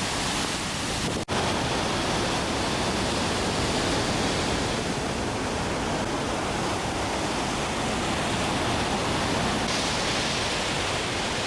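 Steady, loud rush of a waterfall heard up close, drenching spray and all, with a momentary dropout about a second in.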